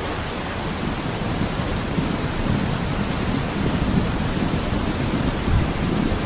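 Steady hiss of heavy rain, with a low rumble of thunder building up in the second half.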